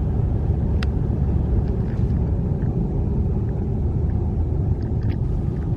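Steady low rumble of a car driving, heard inside the cabin.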